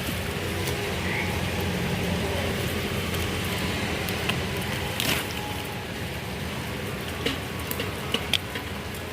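Steady rain falling, with a few sharp ticks in the second half.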